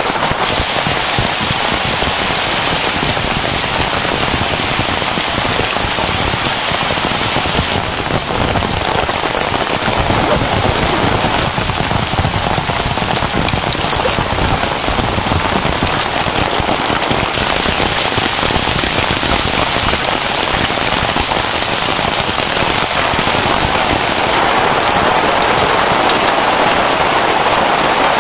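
Heavy rain falling steadily, with many individual drops striking a nearby surface.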